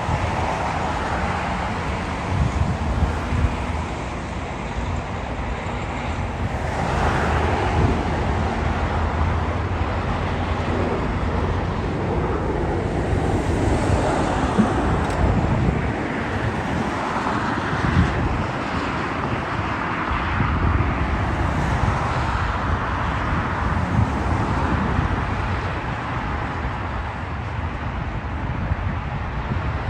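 Steady roar of distant engines, swelling and easing slowly, with wind buffeting the microphone.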